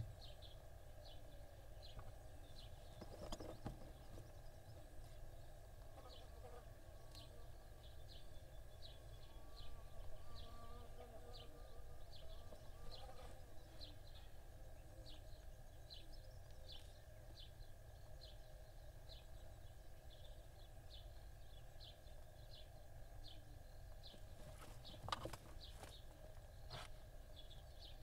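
Faint, short high chirps repeating evenly, about one and a half a second, over a steady low hum. A couple of sharp clicks come near the end.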